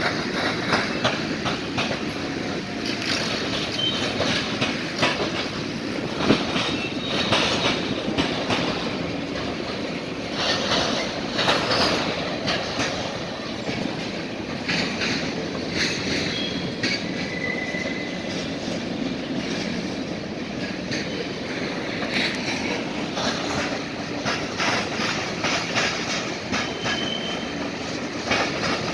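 Mixed freight train of tank cars and boxcars rolling across a railroad diamond crossing. The wheels bang and clatter irregularly over the crossing, with a few short high wheel squeals now and then.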